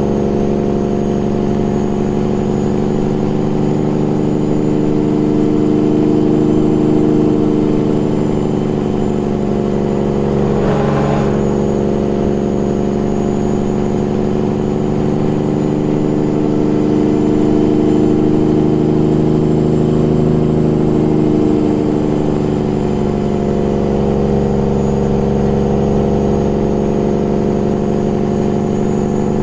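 Peterbilt 389 glider's diesel engine held back by its engine brake (Jake brake) on a long downhill grade: a loud, steady drone whose pitch eases slightly up and down. A brief rush of noise comes about eleven seconds in.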